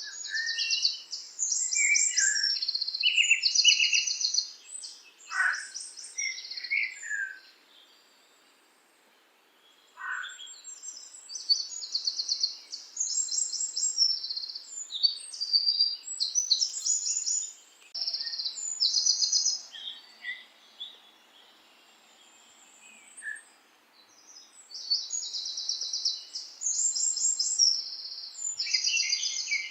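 Songbirds singing: phrases of fast, high trills and chirps, with short pauses about eight seconds in and again past twenty seconds.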